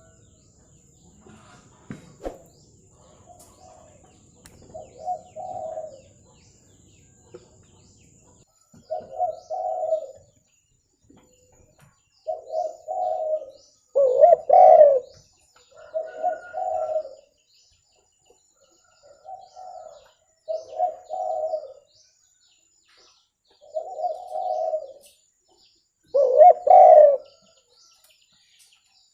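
Spotted dove cooing: a series of low cooing phrases a second or two apart, two of them louder than the rest.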